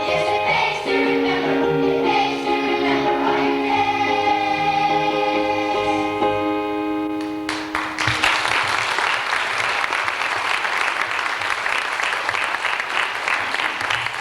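A choir singing with accompaniment, ending on a long held chord; about seven and a half seconds in the song ends and an audience applauds.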